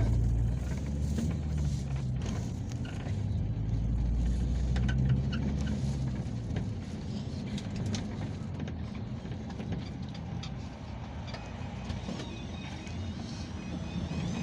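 Peugeot Boxer minibus driving, its engine and road rumble heard from inside the passenger cabin. The sound is heavier for the first half and eases off after about six seconds.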